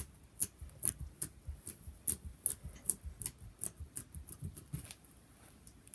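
Homemade fluffy slime being squeezed and stretched by hand: an irregular run of small sticky pops and clicks, a few a second, thinning out near the end.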